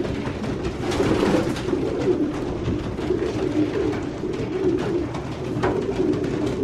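A loft full of racing pigeons cooing, many calls overlapping into a continuous low warbling murmur, with a few faint taps.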